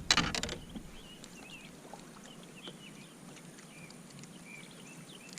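Faint, scattered short bird chirps over a quiet outdoor background, after a brief cluster of clicks in the first half-second.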